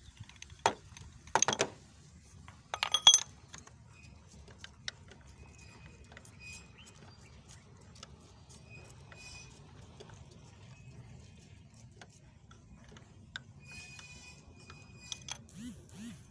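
Metal hand tools clinking and clanking while a spark plug is worked out of a car engine: a few loud clanks in the first three seconds, then scattered faint ticks.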